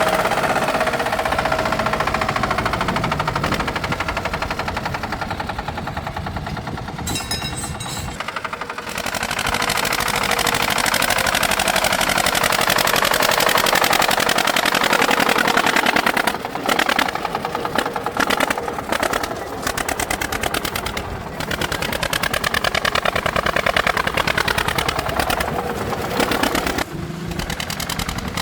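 Tractor engine running with a rapid, even firing beat, its speed rising and falling.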